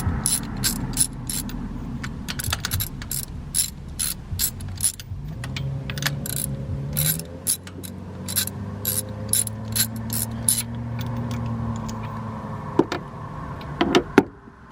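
Ratchet wrench clicking in short runs as a spark plug is unscrewed from the engine's cylinder head, with a low steady hum underneath in the middle.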